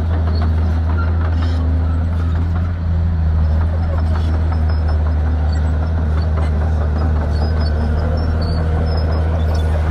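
Shantui bulldozer's diesel engine running steadily under load with a deep, unchanging drone, with dense clicking and rattling on top.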